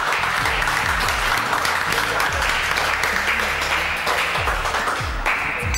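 Applause, steady throughout, over background music with repeated deep, falling bass notes.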